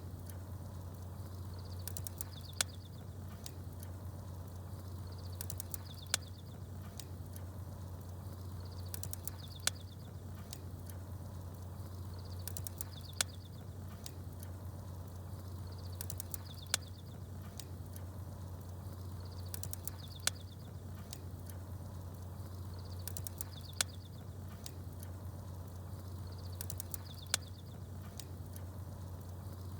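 Campfire ambience: sharp crackling pops at even intervals of about three and a half seconds and short high chirps of small birds, over a steady low hum.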